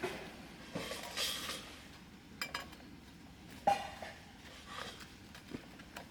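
Cutlery and dishes clinking during a meal: a few scattered clinks and knocks with short rustles in between, the sharpest knock a little past halfway.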